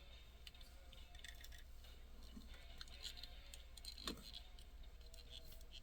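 Near silence with a faint low hum and a few small clicks and ticks as a die-cast model car is handled, the clearest tick about four seconds in.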